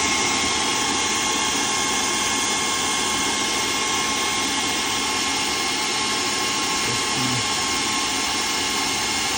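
TOAUTO A1X high-pressure PCP air compressor running, a steady hiss with a steady high whine.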